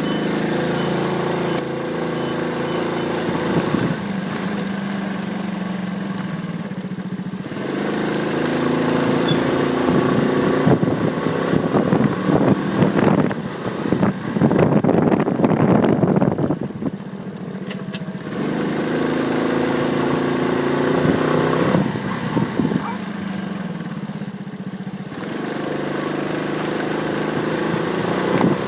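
Motorcycle engine running while riding in traffic, its pitch rising and falling in several spells as the bike speeds up and eases off, with a louder rush of noise in the middle.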